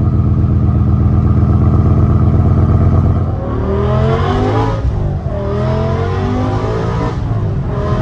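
BMW E60 M5's V10 engine with a loud aftermarket exhaust, idling steadily, then revved twice after about three seconds, the pitch climbing and falling back each time.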